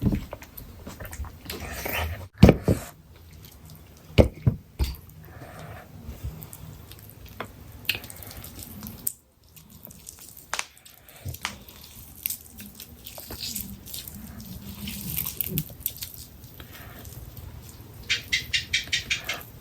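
Close-miked wet eating sounds of chicken curry: scattered smacking, squelching and chewing clicks. Near the end comes a quick run of about eight short, evenly spaced sounds.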